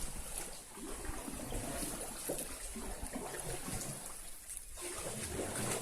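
Water trickling and running.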